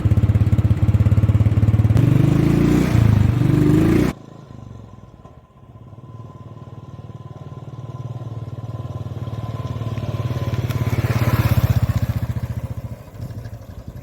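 A vehicle engine running with an even pulsing beat, loud at first with pitched sliding tones over it. After an abrupt cut about four seconds in, the engine sound is quieter, swells and then fades.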